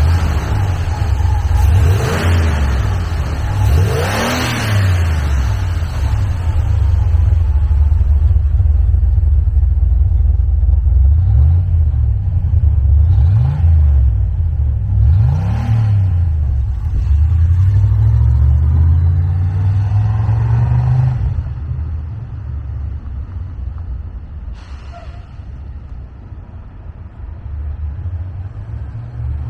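1981 Chevrolet Camaro's engine idling and being revved: about five quick throttle blips, a longer rise in revs around twenty seconds in, then it settles back to a quieter, steady idle.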